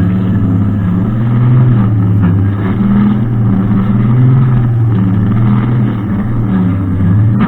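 Brushcutter engine running steadily at working speed, its pitch dipping slightly now and then.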